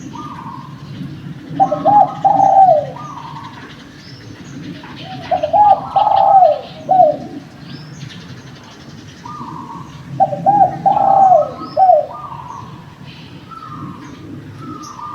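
Spotted dove cooing: three loud coo phrases about four seconds apart, with softer coos between them and small-bird chirps, over a steady low hum.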